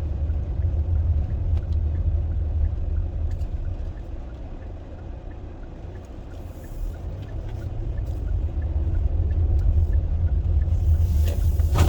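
Low rumble of a car's engine and road noise heard from inside the moving car, easing off about halfway through and building up again.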